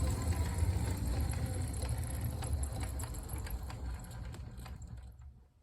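Bachmann 36-ton Shay model locomotive with diecast power trucks running on track: a low gear-and-motor hum with a run of small clicks, fading over several seconds and dropping away about five seconds in.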